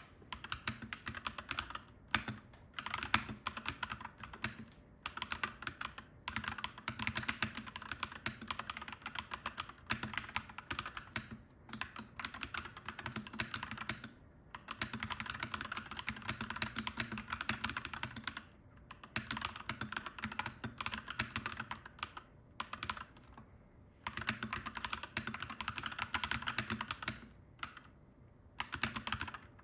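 Clacky mechanical keyboard being typed on in fast, dense runs of keystrokes, broken several times by short pauses of about a second.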